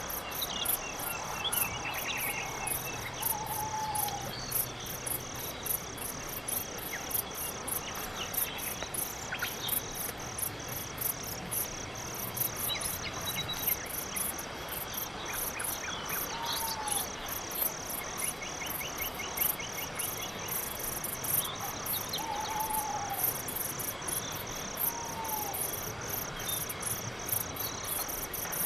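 Crickets chirping in a steady, even pulse, about two to three chirps a second, through the whole stretch. A few short whistled calls and brief chirps from other night animals sound now and then over it.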